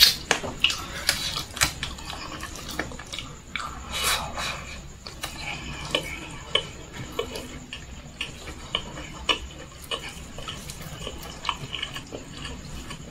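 Close-up wet chewing and lip-smacking of a person eating fried chicken and rice with her hands: many short smacks and squelches, irregularly spaced.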